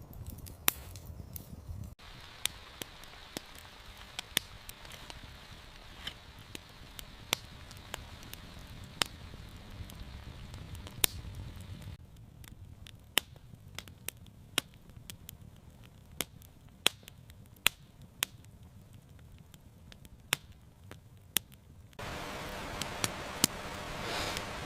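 Wood fire crackling, with sharp scattered pops about once a second over a soft hiss. Near the end a louder steady hiss comes in.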